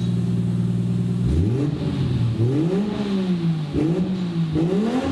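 Turbocharged 1JZ-GTE inline-six engine running through a test resonator on a custom exhaust. It holds steady for about a second, then is revved several times, the pitch rising and falling with each blip.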